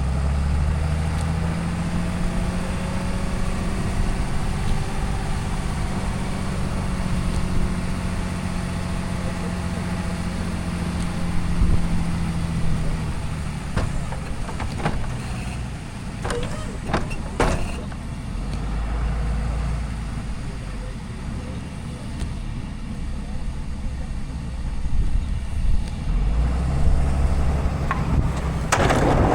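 Diesel pickup truck engine running, its pitch rising and falling slowly, with a few sharp clicks a little past the middle.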